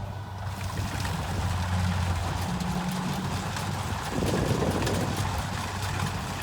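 Rice combine harvester's diesel engine running steadily under a broad mechanical hiss, with a brief rougher swell about four seconds in.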